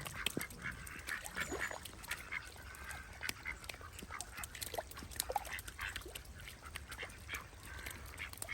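A group of ducks calling with scattered quacks and short cries, overlapping irregularly, with a few short clicks among them.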